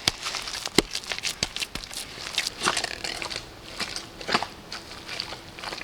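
Irregular crackling and crunching of dry plant material, leaves and cattail, being broken up and crumpled by hand for mixing into clay.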